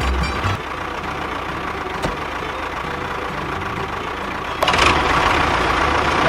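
A truck engine running steadily, joined about two-thirds of the way in by a louder rushing hiss.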